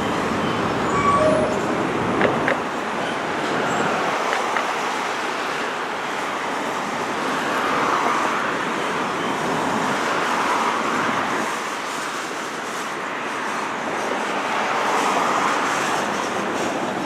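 A train rolling past, a steady noisy rush with a few short clicks in the first few seconds.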